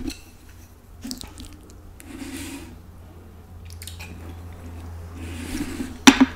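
Close-miked chewing of a mouthful of burrito: soft, wet squishing and smacking mouth sounds, with a sharp click about six seconds in.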